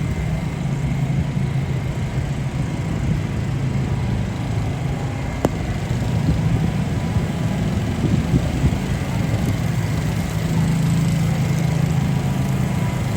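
A motor vehicle engine running nearby: a steady low hum with no words over it. A single sharp click comes about five and a half seconds in.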